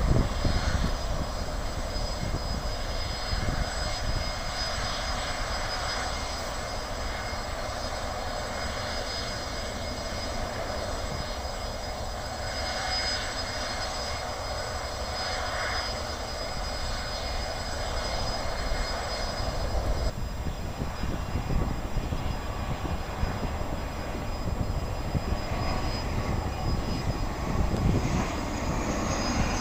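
Airliner engines running, a steady rumble with a thin high whine above it. The sound changes abruptly about twenty seconds in.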